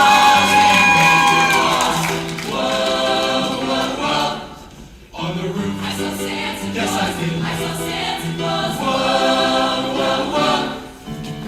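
Choir singing in held phrases, breaking off briefly about four and a half seconds in and again near the end.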